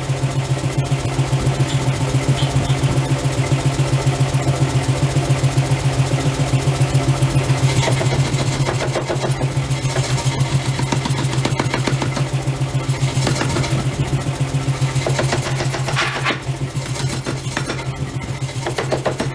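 Heavy forging-shop machinery running with a steady, engine-like low hum that pulses rapidly and evenly, and a few brief sharper noises over it around the middle and near the end.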